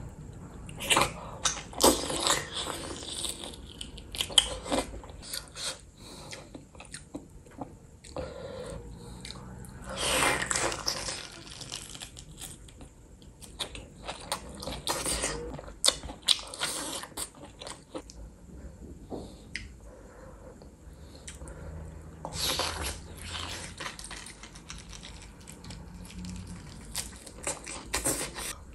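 A person biting and chewing saucy curried meat close to the microphone: irregular mouth clicks, with louder bursts of chewing every few seconds.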